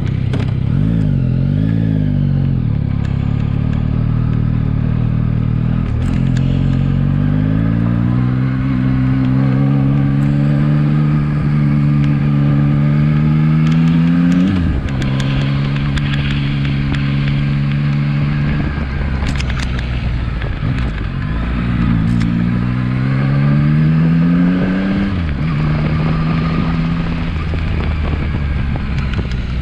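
2023 Yamaha MT-09's 890 cc inline-three engine running under way, its pitch climbing slowly as it pulls, falling sharply twice, and holding steady in between.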